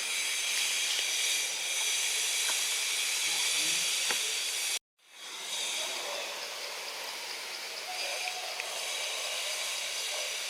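Steady high-pitched hiss of outdoor ambience, broken by a sudden brief dropout to silence about halfway through before it resumes.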